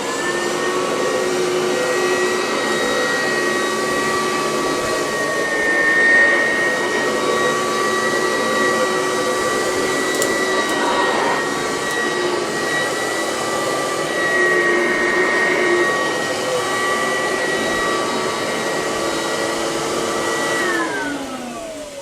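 Kirby Classic Omega upright vacuum cleaner running as it is pushed over carpet, a steady motor and fan whine with small swells in level. Near the end it is switched off and the whine falls away as the motor winds down.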